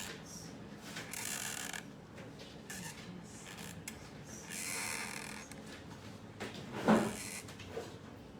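A drawing pen scratching across paper in a few long strokes, with one dull thump about seven seconds in.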